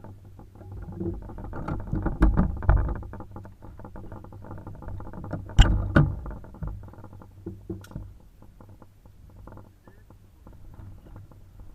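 Wind buffeting the microphone, with a sharp rifle shot about five and a half seconds in, followed by a second crack less than half a second later.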